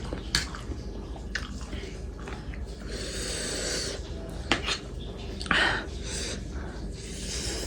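A person eating spicy instant noodles, with hissing breaths through the mouth around the middle and a sniff or slurp about five and a half seconds in, among a few light clicks.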